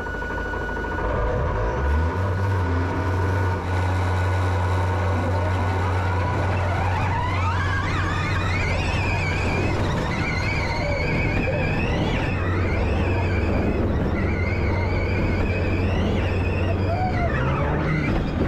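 Audi RS Q e-tron's range-extender petrol engine running at a steady speed to charge the battery, a constant low drone that steps up near the end. From about six seconds in, a high whine rises and wavers up and down in pitch as the car's electric drive motors pull it along.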